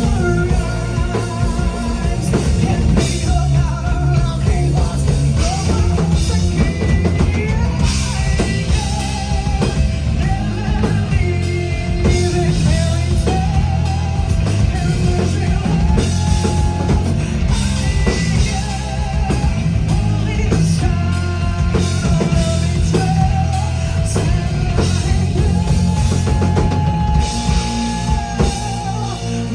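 Rock band playing, with drum kit and bass under a woman's lead vocal sung with a wide vibrato.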